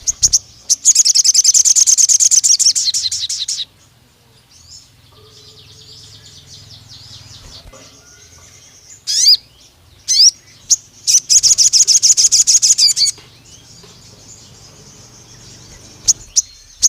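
Sogon songbird singing: two long, loud trills of rapidly repeated high notes, one starting about a second in and another around eleven seconds, with a couple of sharp upward-sweeping calls and softer chattering between them. This is the long 'nembak' burst that keepers play to provoke a sogon into singing.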